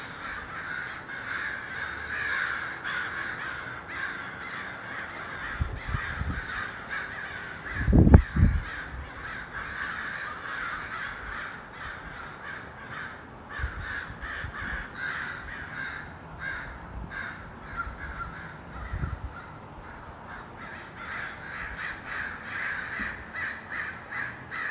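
A large flock of crows, hundreds of birds, cawing all at once in a dense, continuous chorus of overlapping calls. A low rumbling thump about eight seconds in is the loudest moment, with a few fainter ones elsewhere.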